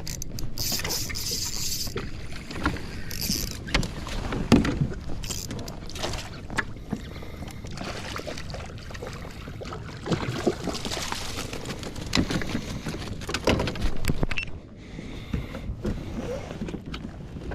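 Irregular knocks, clicks and rustling of handling aboard a fishing kayak, over a steady wash of wind and water noise.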